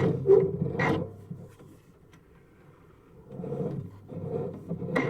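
Rough rubbing and scraping from a sewer inspection camera and its push cable being drawn back through the pipe, in two spells with a quiet gap of about two seconds between them.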